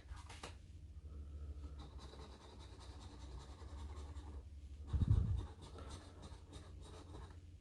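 Scratch-off lottery ticket being scratched: a steady, faint scraping, with a short low thump about five seconds in.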